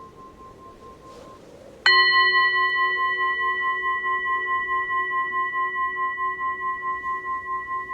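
A singing bowl struck about two seconds in, ringing on in several steady tones with a slow, wavering pulse as it gradually fades. Before the strike, the faint tail of an earlier ring dies away.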